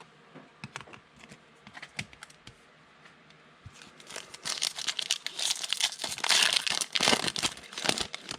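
Light clicks of trading cards being handled, then, about four seconds in, a Panini Contenders Draft Picks card pack's wrapper torn open and crinkled loudly for about four seconds.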